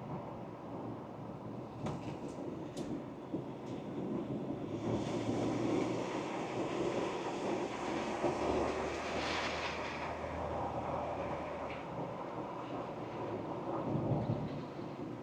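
Ford Ranger Wildtrak pickup on the move: a steady rumble of engine and road noise, with a few sharp ticks about two to three seconds in. The noise swells louder and brighter between about five and ten seconds in, then settles.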